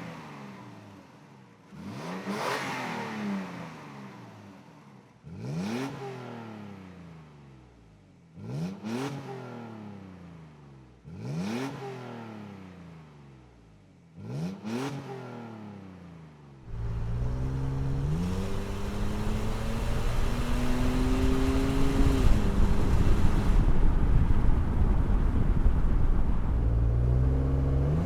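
Toyota Tacoma's 4.0-litre V6 through an MBRP 2.5-inch single turn-down cat-back exhaust, revved in five short blips about three seconds apart, each rising quickly and falling back to idle. After about 17 seconds the truck is driving, the exhaust note rising and falling as it accelerates, with wind and road noise over it.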